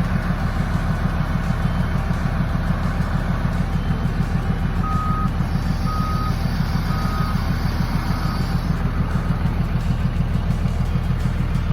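Heavy diesel engine running steadily close by, its low rapid firing pulse filling the sound. About five seconds in, a vehicle's backup alarm beeps four times, about a second apart, growing fainter.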